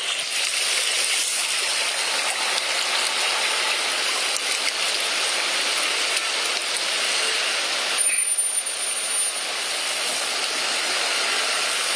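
Steady rushing hiss of water, with a short break about eight seconds in.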